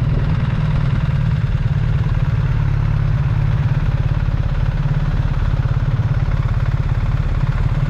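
Motorcycle engine idling steadily, with a rapid, even pulse.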